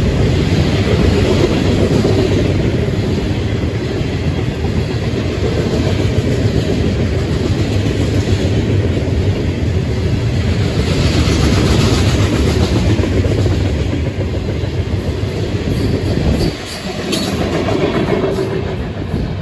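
Freight train of loaded tank cars rolling past close by, a loud steady noise of steel wheels on rail. The noise drops sharply near the end as the last car goes by, then trails away.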